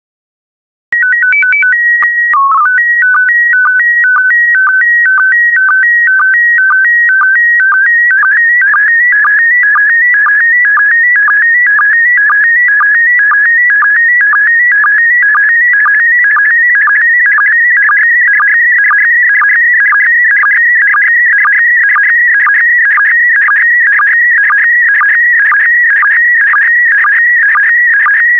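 Slow-scan TV (SSTV) signal in PD120 mode beginning: about a second in, a few quick alternating beeps and a held tone with a brief low dip, the start-of-picture header, then the image lines as a steady stream of shifting electronic tones that pulse about twice a second.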